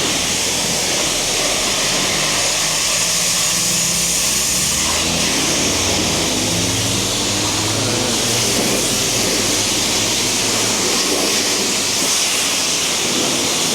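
Water spraying in a steady, loud hiss, as when rinsing soap off a car's paint.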